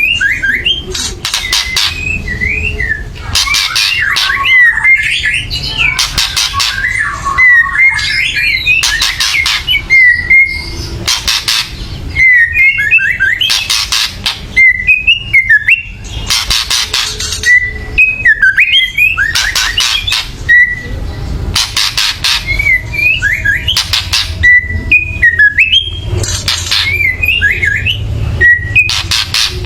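White-rumped shama (murai batu) giving loud, harsh rattling 'kretekan' calls about every one to two seconds, each under a second long, with quick whistled notes in between. It is the bird's agitated, aggressive calling.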